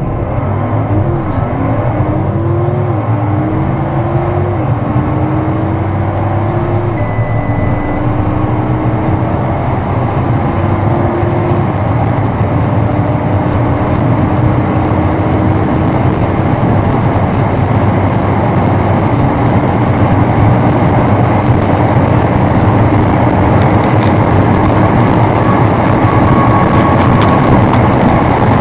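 Audi sports car accelerating hard from low speed, its engine note climbing and dropping back at each of about six quick upshifts, each gear lasting longer than the one before. Wind and road noise build steadily as the speed rises toward the top of the run.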